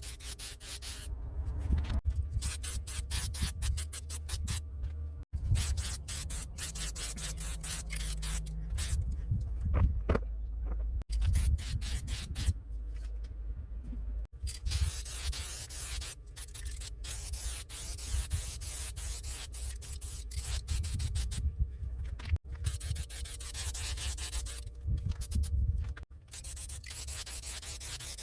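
Scraping and rubbing sounds with dense clicking, in short clips broken by abrupt cuts, over a low rumble.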